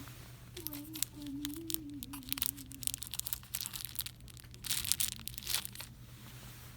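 Plastic packaging crinkling and crackling as it is handled, in quick irregular bursts from about a second and a half in until near the end, over a steady low hum.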